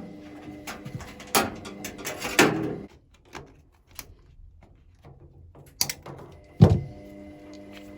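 Knocks and clunks of a washing machine being handled, with a heavy thump about six and a half seconds in, after which a steady low hum sets in.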